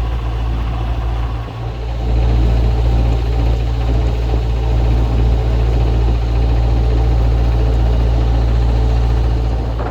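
Narrowboat's diesel engine running steadily under way, with wind rumbling on the microphone; the sound dips briefly about a second and a half in, then runs a little louder.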